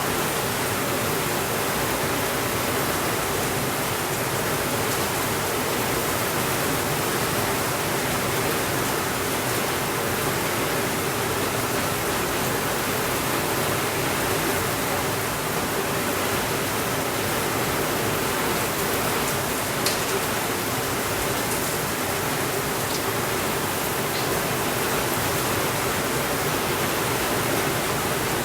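Steady rainfall, an even, unbroken hiss, with a few faint sharp clicks about two-thirds of the way through.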